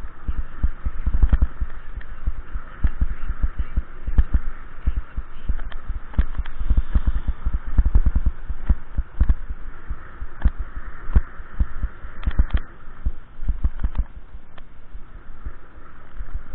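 Wind buffeting the microphone while riding, an irregular run of low thumps and rumbles, over a fainter steady hiss.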